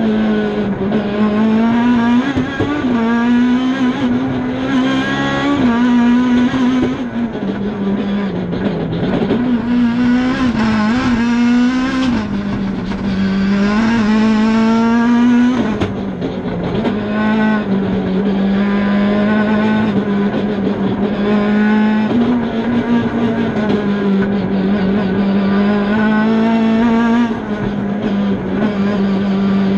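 Cosworth-engined Ford Fiesta rally car heard from inside the cabin, driven hard on a stage: the engine note climbs under full throttle, drops sharply at each gear change or lift, and climbs again, over and over.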